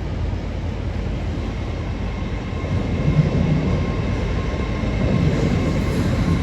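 Train running at a railway station: a steady low rumble with a faint high whine, growing a little louder partway through.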